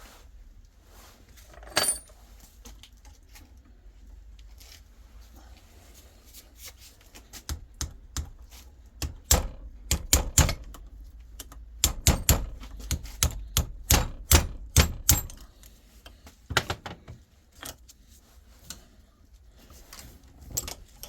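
Metal gearbox parts and tools clinking and clicking as they are handled: one ringing metallic clink about two seconds in, then a quick run of sharp knocks and taps around the middle, and a few more near the end.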